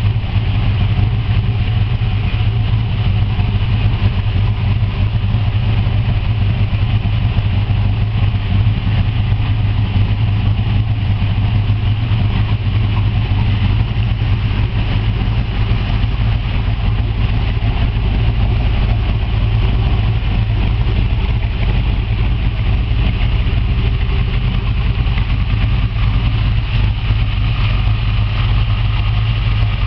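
1964 Chevrolet Corvette's 327 small-block V8 idling steadily.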